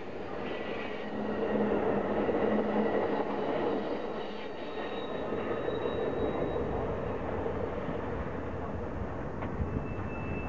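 Amtrak passenger train's stainless-steel cars rolling past close by, their wheels rumbling over the rail, loudest in the first few seconds. As they clear, the steadier rumble and clatter of a freight train of tank cars rolling on a further track takes over, with brief faint wheel squeals.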